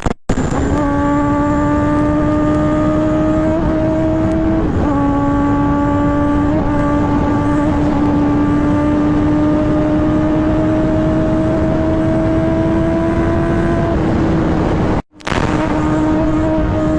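Kawasaki ZX-10R's inline-four engine running at high revs under way, its pitch climbing slowly and steadily with a couple of small dips in the first five seconds, over a rush of wind noise. The sound cuts out for a split second about fifteen seconds in, then comes straight back.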